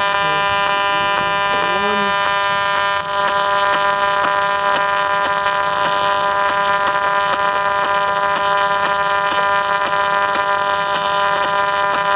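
Harsh, steady buzz of pulsed 900 MHz interference demodulated through a radio receiver's speaker, with many evenly spaced overtones.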